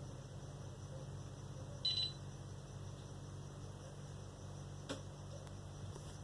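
Steady low electrical hum with a faint hiss, broken by one short high beep about two seconds in and a brief click about five seconds in.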